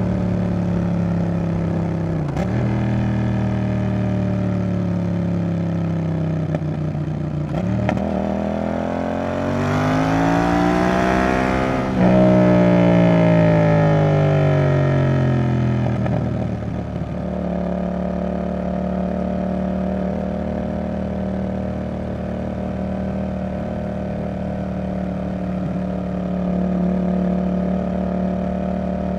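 Yamaha XSR700's CP2 parallel-twin engine through a Roadsitalia Double Fire aftermarket exhaust, heard from the rider's position. The note breaks briefly twice, then the revs climb for about four seconds, turn louder, and fall away before it settles into a steady cruise.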